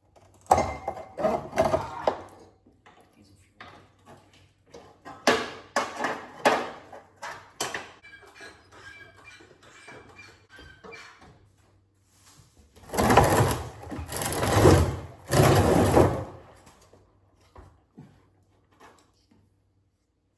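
Work under a truck: scattered metal clunks and knocks of tools and parts, then three loud bursts of a power tool, each about a second long, near the end.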